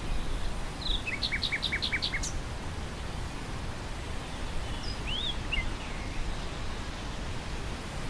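Wind through grass, a steady noisy rumble, with a nightingale singing over it: about a second in, a fast run of about six repeated notes ending on a high note, then a few scattered notes around the middle.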